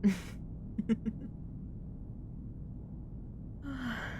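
A woman's breathy exhale, then a few short soft vocal sounds about a second in, and a breathy sigh that falls in pitch near the end.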